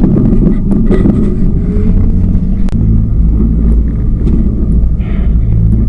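Tour boat's motor running with a loud, steady low rumble, with a few light clicks over it.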